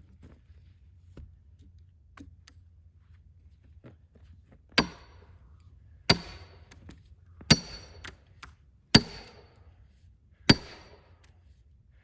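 Steel wedge being driven into a cedar log with hammer blows to split it into rails: five sharp strikes with a metallic ring, about one and a half seconds apart, starting about halfway through.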